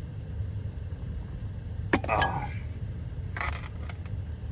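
Steady low rumble of a car heard from inside the cabin, with a sharp clink about two seconds in followed by a brief hiss, and another short hiss over a second later.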